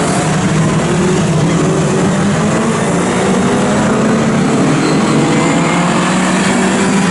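Historic touring car engines running hard at racing speed: a loud, steady engine note whose pitch drifts up and down as the revs change.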